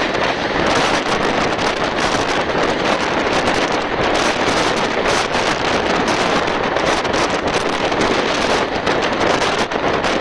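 Wind rushing over the microphone at the window of a fast-moving express train, a steady loud roar with slight gusting flutter.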